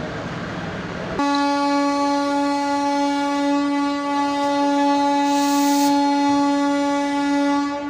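Diesel locomotive's horn sounding one long, steady blast that starts about a second in and cuts off near the end.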